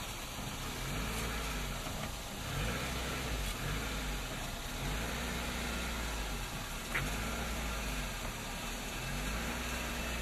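Suzuki Samurai 4x4 engine running at low revs under load as it crawls up onto a log seesaw, its pitch rising and falling gently every second or two with the throttle. One sharp click about seven seconds in.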